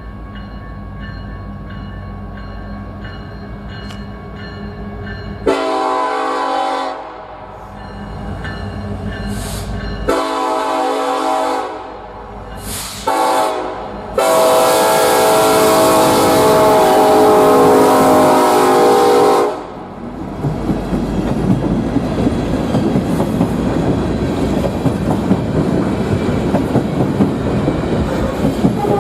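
Diesel locomotive approaching with its engine running, then sounding its air horn in the long-long-short-long grade-crossing pattern, the last blast held for several seconds. The train then passes with steady wheel clatter over the rail joints.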